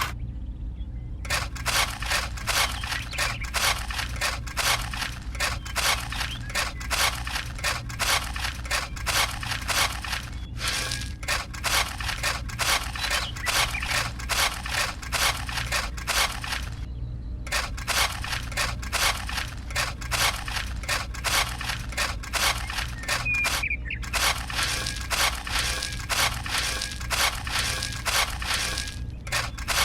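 Rapid, rhythmic scraping strokes, about three to four a second, over a steady low hum, broken by a few brief silences.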